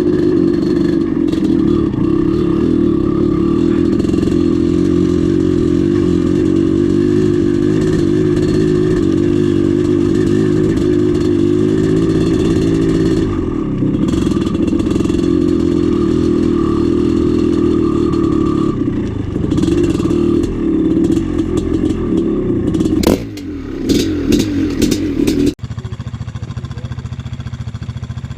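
Two-stroke single-cylinder engine of a 1996 Maico 440 dirt bike running under load during trail riding, its pitch rising and falling with the throttle, with clatter. About 25 seconds in it cuts abruptly to a quieter, lower steady engine sound.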